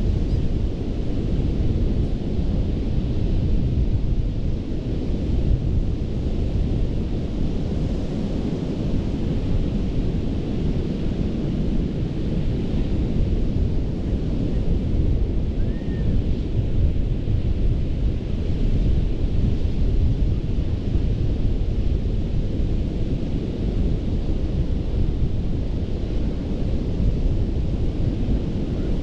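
Ocean surf breaking on a sand beach as a steady, unbroken low rumble, with wind buffeting the microphone.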